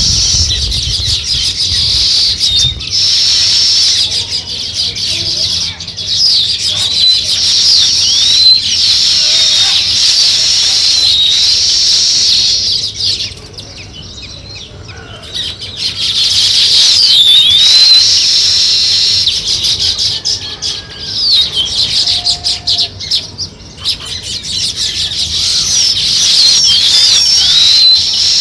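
A flock of small songbirds chirping together in a dense, continuous chatter of many overlapping high, quick chirps. The chorus thins briefly about halfway through and again about two-thirds of the way in.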